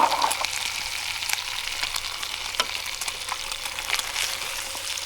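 Guanciale frying in its own fat in a pan, with no oil added: a steady sizzle dotted with sharp crackling pops.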